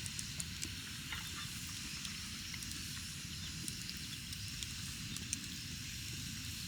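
Wood campfire burning, with irregular small crackles and pops over a steady low rush.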